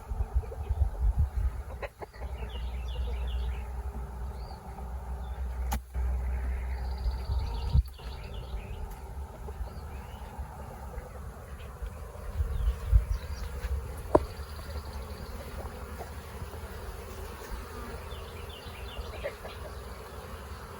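Honey bees buzzing around an open hive, with single bees droning close by now and then, over a low rumble and a few sharp knocks.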